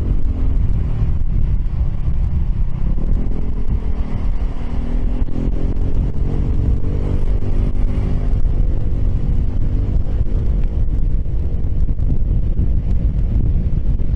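Piaggio X10 scooter's engine and exhaust while riding, the engine note rising and falling with speed, under heavy wind rumble on the microphone.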